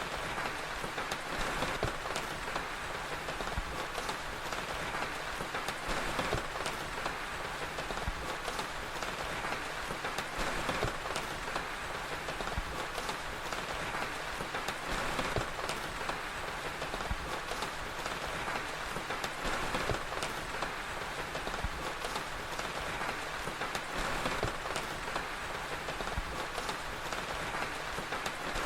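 Steady rain with an even hiss, with scattered sharp crackles of a fire through it.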